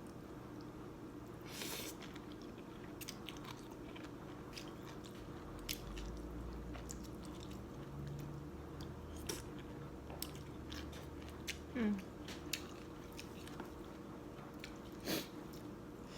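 A person eating a bowl of noodle soup: chewing and mouth sounds, with many small sharp clicks, brief noisy bursts about two seconds in and near the end, and a short hum of the voice about three quarters of the way through.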